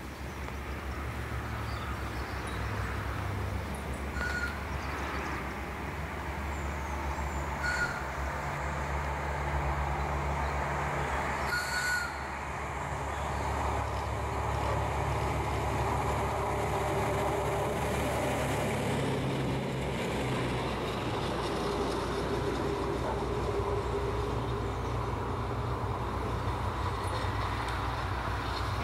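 Train running on the rails with a steady low rumble of engine and wheels, growing a little louder in the second half as it comes by. Three short high chirps sound over it in the first half.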